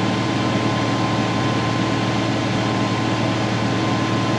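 Grain bin unloading auger running steadily under a tractor's PTO drive while moving shelled corn. It gives a loud, constant mechanical hum with a steady thin whine above it.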